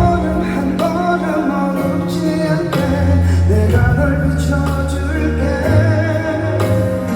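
Live pop ballad played by a band through a stadium PA, with a singer's melody over steady bass and chords.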